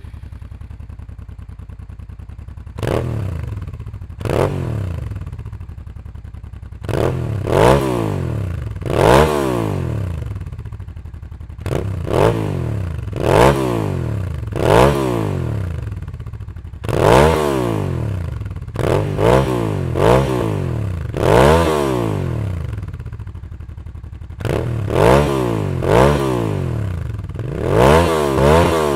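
2001 Suzuki SV650's 645 cc V-twin through an Ixil slip-on exhaust: idling for about three seconds, then blipped again and again, each rev rising sharply and falling back, one to two seconds apart with short pauses at idle. There is some popping from the exhaust as the revs drop.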